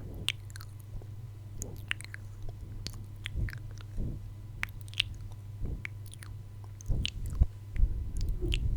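ASMR mouth sounds close to the microphone: irregular wet clicks and smacks of lips and tongue, over a steady low hum.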